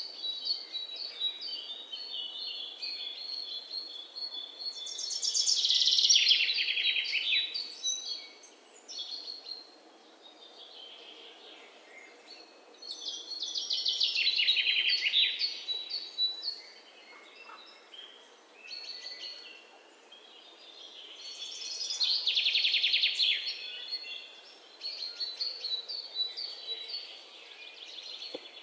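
Several songbirds singing. One loud, fast trilled song comes back about every eight seconds, with other birds' shorter chirps and high notes in between.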